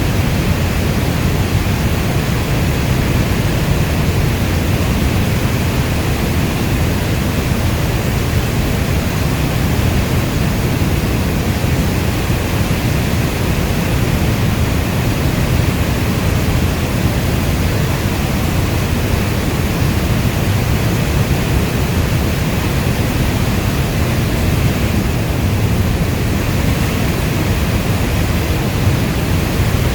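Steady, heavy rainfall: an even, unbroken rush of noise weighted toward the low end, with no distinct drops or thunder standing out.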